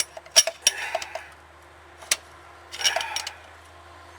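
Sharp metallic taps and clinks of hammer and screwdriver on the spindle nut of a 4x4 truck's front hub: several in the first second, one about two seconds in and a quick cluster around three seconds in, as the loose nut is tapped tighter.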